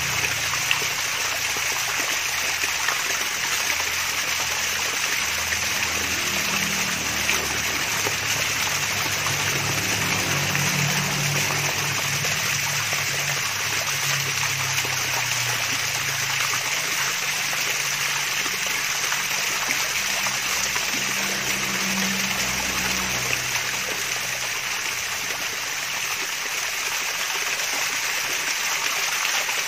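Water of a small waterfall splashing and babbling steadily, an even, unbroken rush with no breaks.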